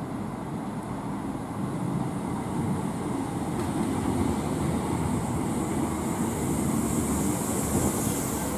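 Class 321 electric multiple unit pulling into the platform and running past close by: a steady rumble of wheels on rail that grows louder about two seconds in, with a high hiss building near the end.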